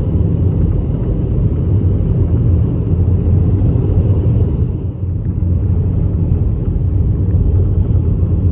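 Steady low rumble of a car driving on the highway, heard from inside the cabin: engine and tyre noise, dipping briefly about five seconds in.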